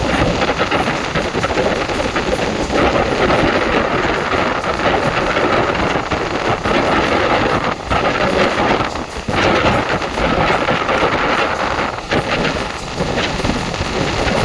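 ICF passenger coach running at speed: a loud, steady rumble of steel wheels on the rails mixed with rushing air, dipping briefly a few times.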